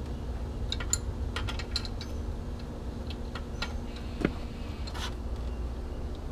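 Socket ratchet clicking in short, irregular runs as the 15 mm nuts holding an outboard's lower unit are turned off.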